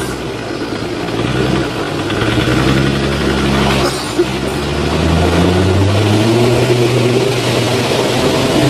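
Off-road 4x4's engine running, its pitch rising a little past halfway through as it revs, with a brief knock in the middle.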